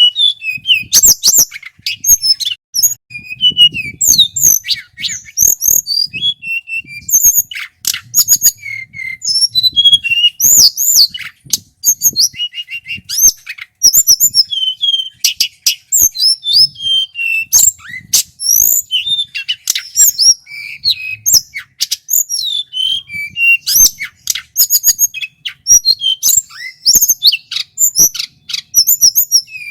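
A male tledekan gunung songbird singing loudly and without let-up: a rapid, varied run of clear whistles, sharp chirps, pitch glides and short rolling trills with only brief pauses.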